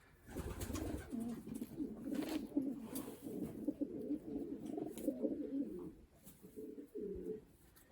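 Racing pigeons cooing, several low wavering calls overlapping, which stop about six seconds in, with one short coo near the end.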